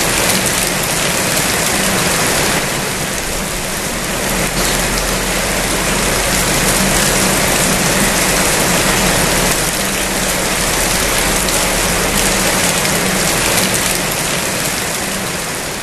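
Steady heavy rain falling on surfaces, a dense even hiss with a steady low hum underneath.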